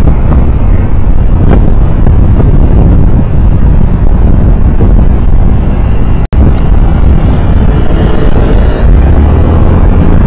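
Loud, steady road and wind noise from a moving vehicle, picked up by an onboard camera, with a brief total dropout in the sound about six seconds in.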